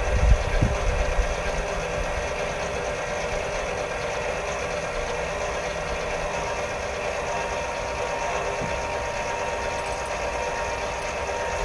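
Lippert (LCI) 3,500 lb power tongue jack's electric motor running steadily under power, driving the jack up or down.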